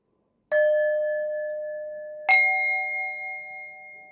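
Metal singing bowls struck twice, about half a second in and again about two seconds later at a different, slightly higher pitch, each note ringing on and slowly fading.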